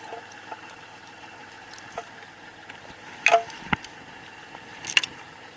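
Steel chain clanking a few times as its links are shifted and rehooked to shorten it, with two sharp clanks loudest. The Kubota L3560 tractor's diesel engine runs steadily underneath.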